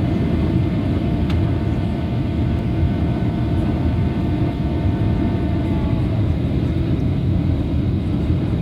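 Airliner noise: a steady, loud rumble of engines and airflow. A faint steady whine runs over it and stops about six seconds in.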